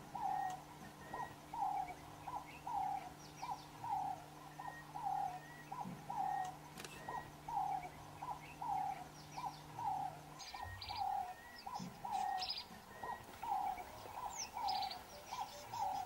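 A bird repeating a short, slightly falling hooting note nearly twice a second, with other birds chirping higher at times. A low steady hum stops about ten seconds in.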